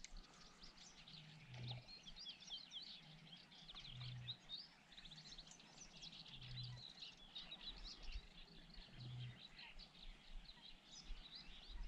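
Faint chorus of small birds chirping and singing, many quick overlapping chirps, over a faint low hum that swells about every two and a half seconds.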